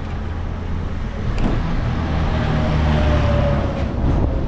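A motor vehicle passing close by: engine hum and road noise that swell to a peak about three seconds in and then ease off.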